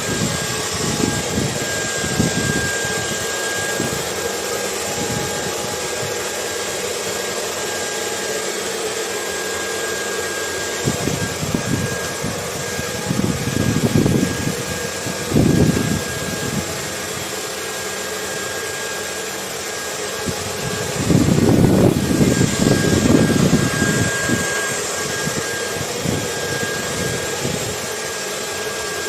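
Hair dryer running steadily, a hiss with a thin high whine, mixed with ocean wind whose low gusts swell and fade, loudest about halfway through and again about three quarters of the way in.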